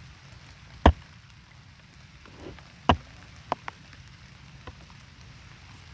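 Steady rain falling, with a few sharp taps of raindrops striking close to the microphone; the loudest taps land about one and three seconds in.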